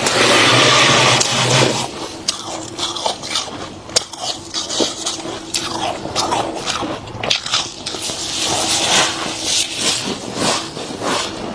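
Thick, fluffy freezer frost crunching and scraping. A loud, dense crunch comes in the first second and a half, then irregular smaller crunches and crackles follow.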